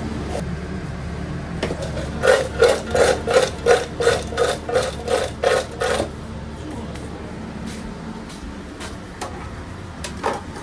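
A kitchen utensil knocking or scraping rhythmically on a hard surface, about a dozen strokes at roughly three a second, starting about two seconds in and stopping about four seconds later, over a steady low hum. A single knock comes near the end.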